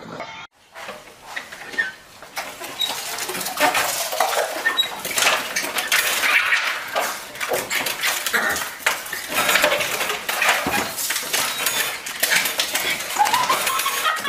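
Rapid, irregular metallic clattering and knocking as puppies jump up against a front door and rattle its brass mail-slot flap, mixed with a few short high yelps, one rising near the end.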